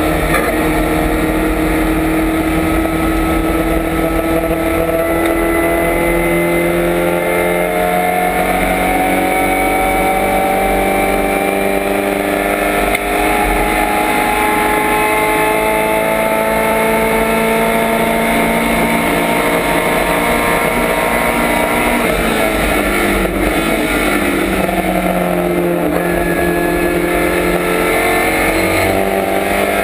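1965 Lotus Cortina's Lotus twin-cam four-cylinder racing engine, heard from inside the stripped cabin, running hard under load. Its note climbs slowly in long stretches and drops in pitch at gear changes, with a dip and recovery about three quarters of the way through.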